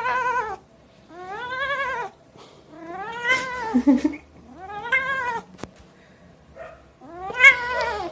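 A domestic cat yowling: about five drawn-out meows in a row, each about a second long, its pitch wavering as it rises and falls.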